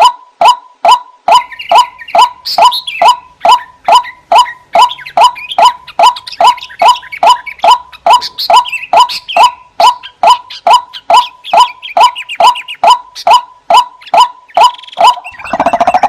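White-breasted waterhen (ruak-ruak) calling: a steady run of short, falling notes, about three a second, with a higher, busier chatter of calls layered over it from about a second in. Near the end a denser, louder outburst of calls breaks in. This is a recorded lure call used to attract the birds.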